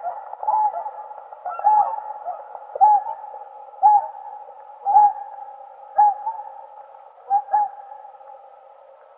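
Whooper swan calling: a series of short bugling notes, about one a second, ending in a quick double note.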